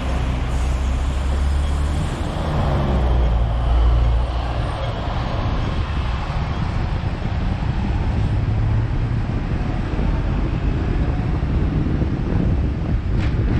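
Hong Kong double-decker tram riding along a city street: a steady low rumble of the tram with road traffic around it. A few sharp clicks come near the end.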